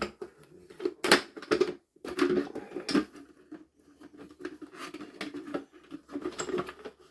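Plastic parts of a vacuum cleaner's casing being handled and worked loose: irregular clicks and knocks with scraping in between, the sharpest knock about a second in.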